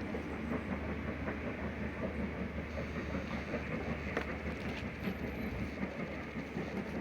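Train running on the rails: a steady rumble with a few light clicks and knocks.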